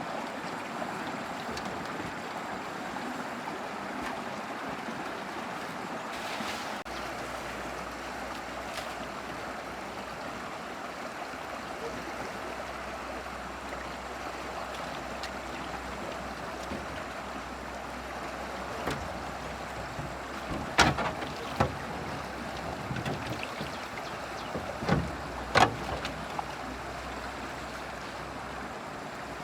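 Steady rush of flowing water, with several sharp knocks in the second half.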